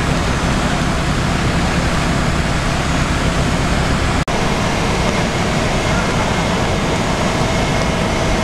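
Heavy rain falling, a steady loud hiss mixed with the running of road vehicles. The sound drops out for an instant about four seconds in.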